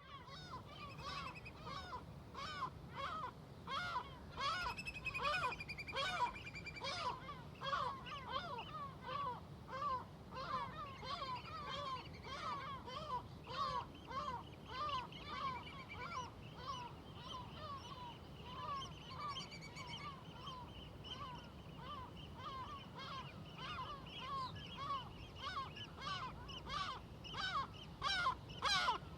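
A large flock of seagulls calling continuously, many overlapping short calls each second, over a steady low rumble of distant traffic and surf.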